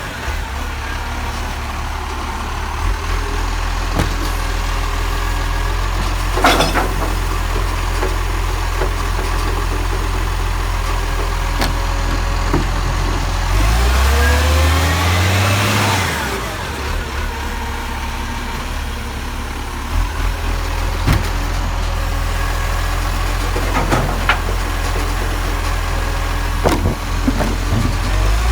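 Garbage truck's diesel engine running steadily. About halfway through the revs climb with a rush of hiss, then fall back to a steady drone. A few sharp clicks and knocks sound over it.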